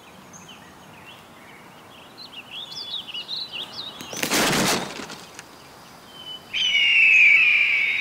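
Woodland songbirds chirping and singing. A loud, brief rush of noise comes about four seconds in, and a loud, long, high note, falling slightly, runs through the last second and a half.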